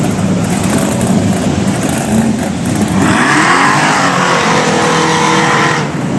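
Car engine running loudly, then revving up about three seconds in and holding high revs for nearly three seconds before dropping off near the end.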